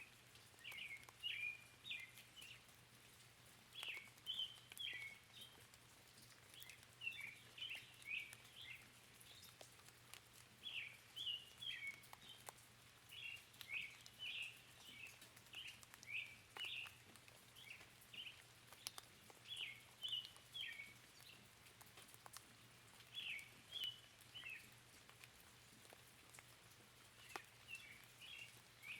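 A songbird chirping in short, quick phrases, repeated every second or two, over a faint hiss of rain with scattered drips.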